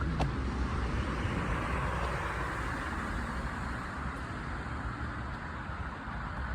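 Steady rumble of distant engine noise, swelling slightly around the middle.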